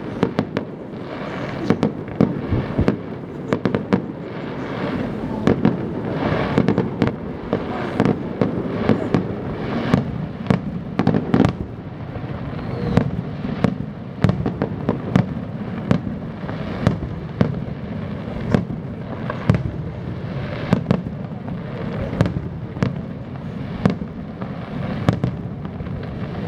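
Fireworks display going off: a steady stream of sharp bangs, one or two a second, over continuous dense crackling.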